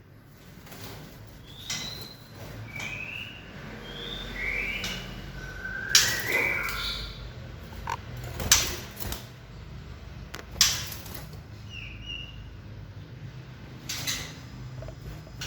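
Young white-rumped shamas giving short chirping calls, several in the first half and a couple more later, among sharp knocks and clicks, which are the loudest sounds.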